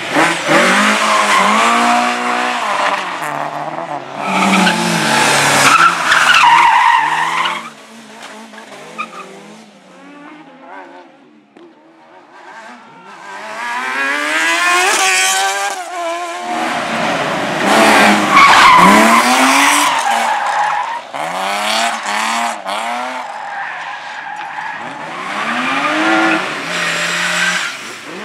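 Slalom cars' engines revving hard, rising and falling in pitch again and again as they accelerate and brake between cones, with tyres squealing and skidding on tarmac. It goes quieter for a few seconds in the middle, then a car comes close again, revving hard.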